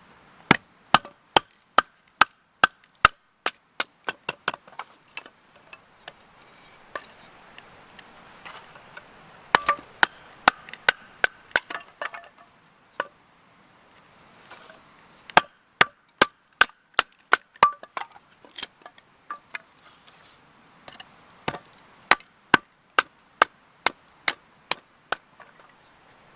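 Knife chopping vegetables on a wooden cutting board: sharp, even strokes at about two a second, in several runs with short pauses between them.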